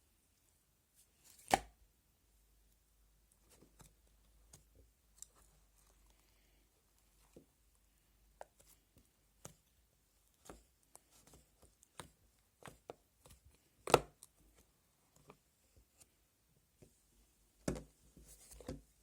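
Bubblegum slime being squished and pulled by hand, giving scattered sticky clicks and pops with quiet gaps between them. The sharpest pops come about a second and a half in, about fourteen seconds in, and near the end.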